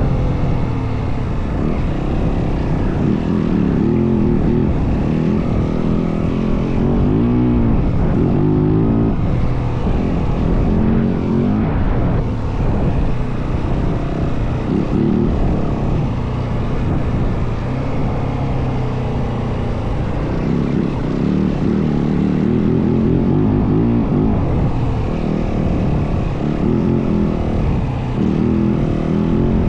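Yamaha WR450F single-cylinder four-stroke dirt bike engine running under way, its revs rising and falling, with wind rushing over the microphone.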